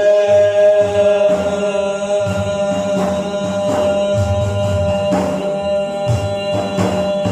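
Male chanter of an Iraqi manqaba (Prophetic praise chant) holding one long sung note, with frame drums beating underneath.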